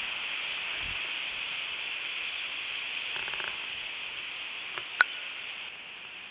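Steady hiss with a single sharp click about five seconds in.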